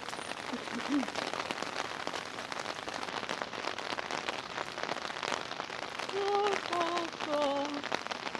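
Steady rain falling, dense with the patter of individual drops. Near the end a voice sings or hums three short notes, each lower than the last.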